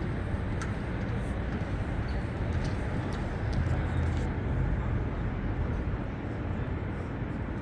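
Steady low rumble of outdoor urban background noise, with a few faint ticks.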